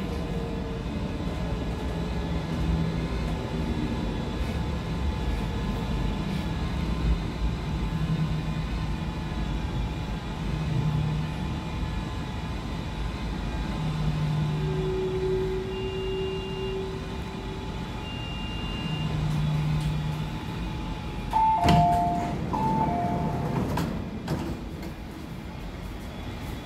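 MTR C-Train electric multiple unit running, heard from inside the passenger car: a steady rumble of wheels and traction equipment with short humming motor tones coming and going. About three quarters through, a short two-note chime sounds twice amid a few clicks.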